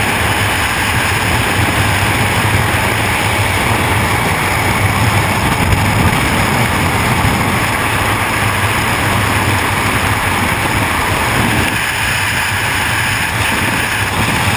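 Freefall wind rushing over a helmet-mounted camera's microphone: a loud, steady roar with heavy low buffeting.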